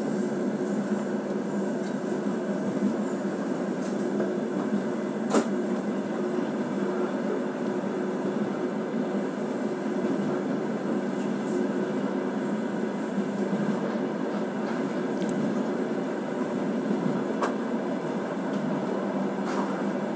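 Steady running noise of a train heard from inside the passenger carriage: a constant hum with a few sharp clicks, one about five seconds in and a couple more near the end.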